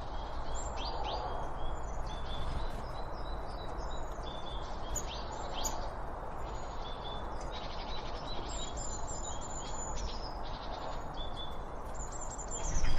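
Several small songbirds chirping and trilling in quick, overlapping short phrases over a steady low background rush. A louder noise begins to swell near the end.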